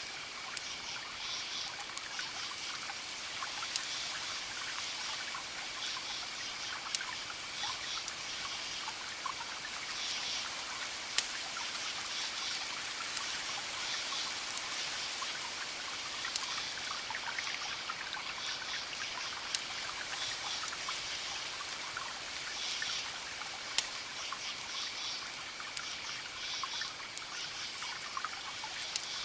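Campfire crackling, with scattered sharp pops over a steady hiss, against a continuous high cricket trill and short bursts of insect chirping that come back every few seconds.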